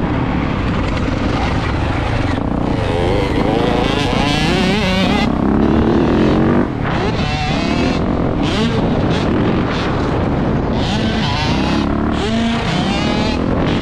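Mini motocross dirt bike's engine being ridden hard, its pitch repeatedly rising and falling with throttle and gear changes, over a steady rush of noise.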